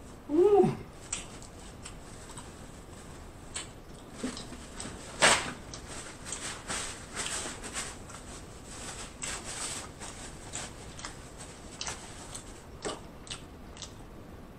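Close-miked eating noises from chewing lobster tail: a run of small wet clicks and lip smacks, with a brief hum of the voice about half a second in and one louder smack about five seconds in.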